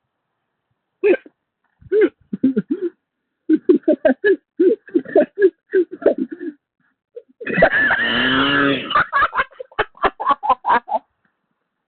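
A man's voice over a voice-chat line through a distorting novelty microphone, making rapid, choppy laugh-like vocal noises in short runs, with one longer, louder, harsher outburst about two-thirds of the way through.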